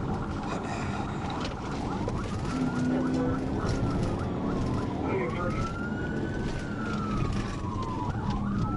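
Police siren wailing, starting about two seconds in and slowly rising and falling in pitch about every three seconds, over steady vehicle and road noise.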